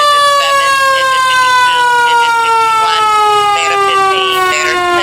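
Fire engine's siren in one long, slow, steady fall in pitch, the wind-down of a mechanical siren coasting after it has been run up.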